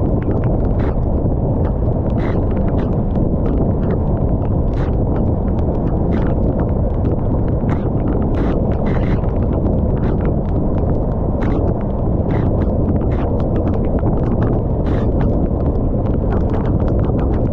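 Rain: irregular drops ticking sharply on a nearby surface over a loud, steady, deep rumble.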